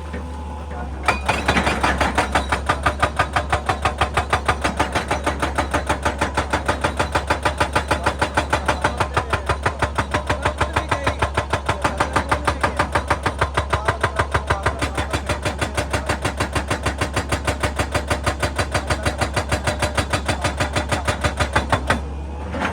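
Excavator-mounted hydraulic breaker hammering rock in a fast, even rhythm of blows over the steady hum of the machine's engine. It starts about a second in and stops just before the end.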